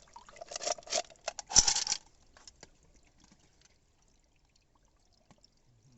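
Water pouring and splashing for about two seconds, then only faint scattered drips and ticks.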